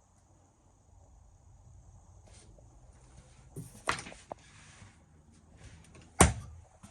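Two sharp thumps about two seconds apart, the second one louder, with a few small clicks over a faint low hum.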